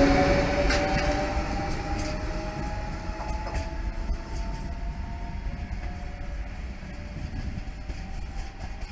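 Electric TER regional multiple unit pulling away, its traction motors whining in a couple of steady tones that slowly rise in pitch as it gathers speed, under a low rail rumble that fades as the train draws off.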